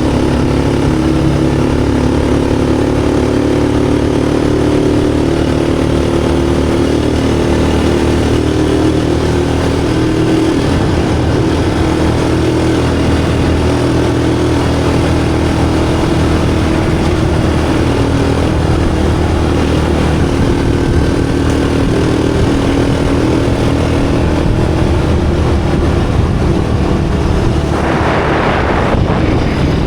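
A vehicle engine running steadily, its pitch shifting about ten seconds in, with a brief rush of noise near the end.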